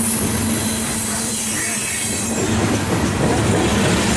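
Loaded coal cars of a CSX freight train rolling past close by: steel wheels running on the rails with a loud, steady rumble and rattle.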